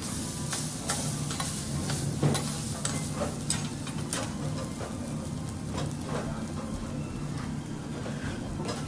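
Food sizzling on a teppanyaki steel griddle, with frequent short clicks and scrapes of metal spatulas against the plate.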